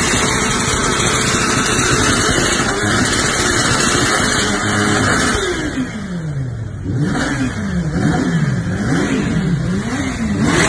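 Kawasaki Ninja H2's supercharged inline-four revved hard while stationary, spitting flames from the exhaust. It is held high for the first five seconds, then drops and is blipped up and down about once a second.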